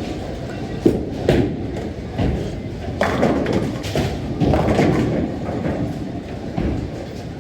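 Low, steady rumbling with a few sharp thumps and knocks, one near the start, another just after it, and one about three seconds in.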